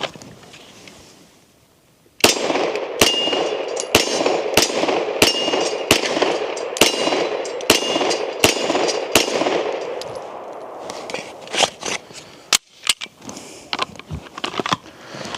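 Ten pistol shots from a Gen 5 Glock 17L 9mm, fired at a steady pace of about one shot every 0.8 seconds, starting about two seconds in. The steel target rings with a short clang after several of the hits. Lighter clicks and knocks follow near the end.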